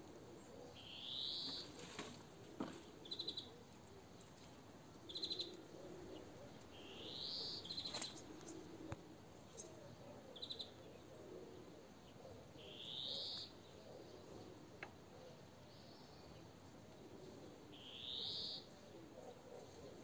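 Songbirds singing in a garden: a clear rising whistled note repeated four times, about six seconds apart, with short trilled chirps in between.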